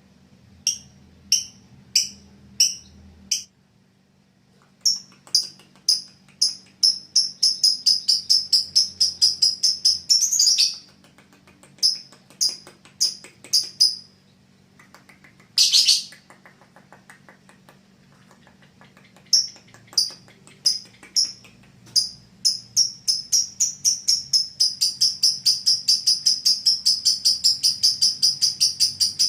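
Lovebird singing: sharp high chirps in runs that quicken into a rapid trill, once briefly and then a long run-on trill near the end, with a single short harsh screech about midway.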